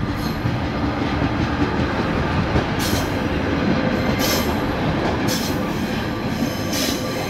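Class 142 Pacer diesel multiple unit passing close by: a loud, steady rumble of its underfloor diesel engines and wheels on the rails. Four brief high-pitched bursts come in the second half.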